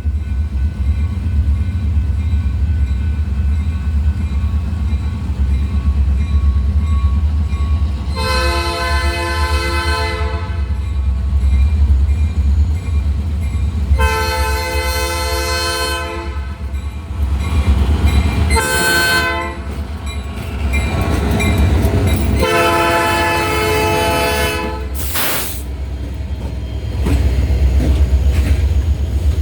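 Diesel freight locomotive horn sounding the grade-crossing signal: two long blasts, one short and a final long one, over a steady low rumble from the train.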